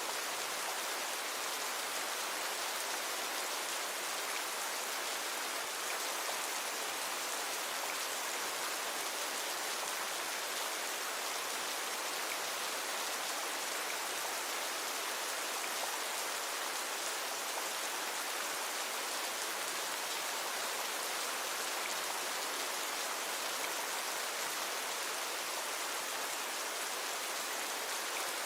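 Steady rain falling, an even hiss of many drops with no breaks or single loud hits.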